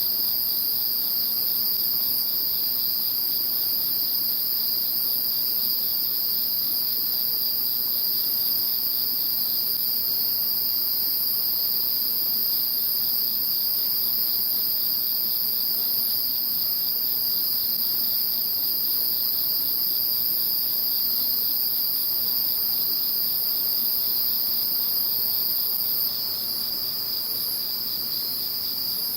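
A dense chorus of insects singing together in a steady, unbroken drone. It has one high-pitched layer and one still higher layer, and the highest layer drops a little in loudness near the end.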